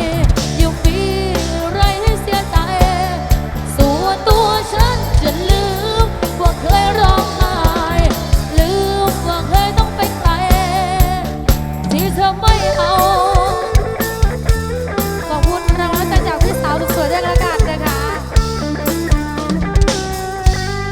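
Live band playing an instrumental passage through a PA sound system: a drum kit keeps a steady beat under a wavering lead melody. It eases off near the end.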